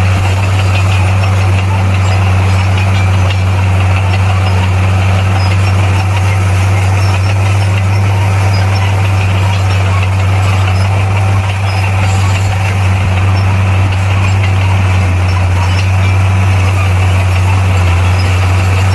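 Bulldozer's diesel engine running steadily at a constant speed, a loud unchanging low drone.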